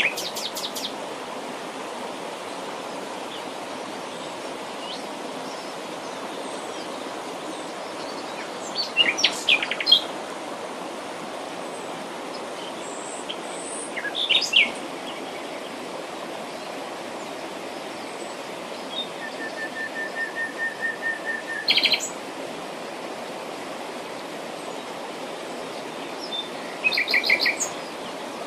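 Wild birds singing and calling in short phrases a few seconds apart over a steady rushing background. Around twenty seconds in, one bird gives a run of repeated short notes, about four a second.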